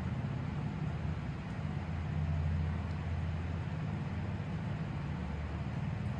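Steady low rumble of a car in motion, with road and engine noise and no distinct events.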